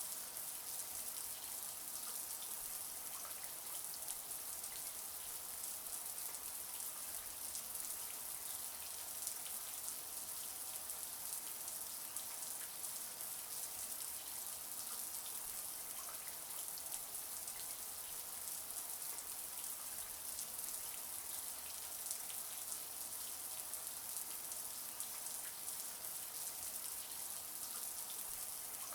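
Shower water running steadily, a dense hiss of spray with fine pattering of drops, brightest in the high end.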